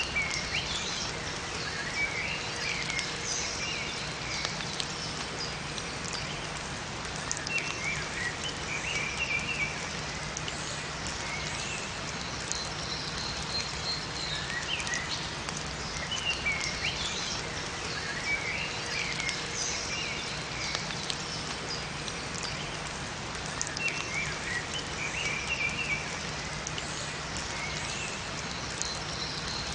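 Steady rain falling in a forest, with small songbirds chirping in short high bursts that recur every few seconds.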